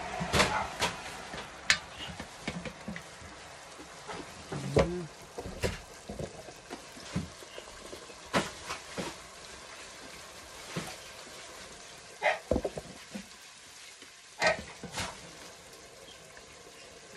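Meat and vegetables sizzling in a stock pot while being stirred, with the plastic spatula scraping and knocking against the pot every second or so over a steady hiss.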